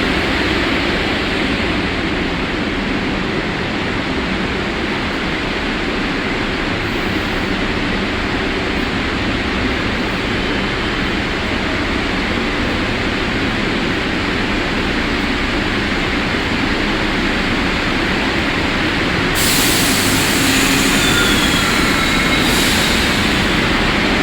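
A New York City subway train running in the station: a steady, loud rumble on the track, with a high hiss joining near the end.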